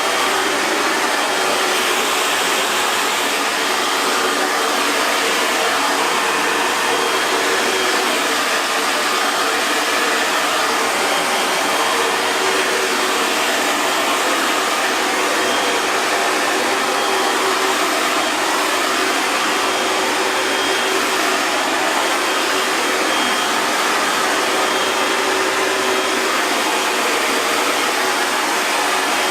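Hair dryer running steadily: an even rush of blown air over a faint motor whine, with no change in speed.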